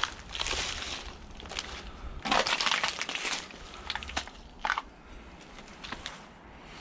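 Crunching and rattling of scrap metal being handled and sorted: a sharp knock, then two stretches of dense crunching clatter with scattered small clicks after.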